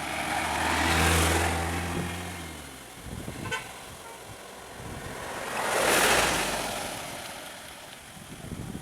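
Two road vehicles pass one after the other, each swelling and fading, about five seconds apart; the first, a heavy vehicle, carries a steady low drone that stops about three seconds in. A brief run of ticks comes between the two passes.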